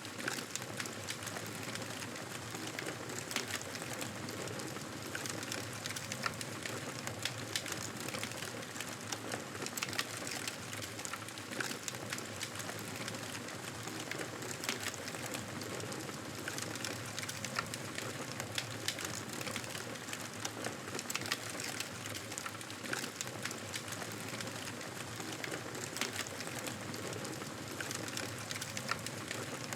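Wood fire crackling in a fireplace: a steady hiss with frequent, irregular pops and snaps.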